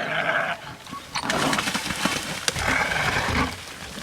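Harsh wild animal calls: one ending about half a second in, then a longer one lasting about two seconds, with a sharp click in the middle of it.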